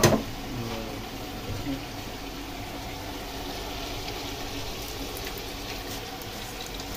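Steady frying sizzle from cashews in hot oil in a frying pan and chicken frying in a pot beside it.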